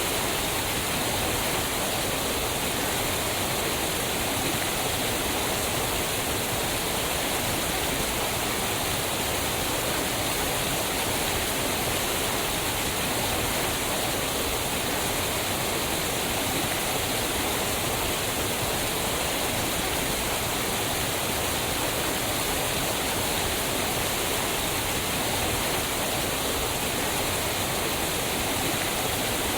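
Waterfall: fast-moving water falling onto rocks, a steady, unbroken rush.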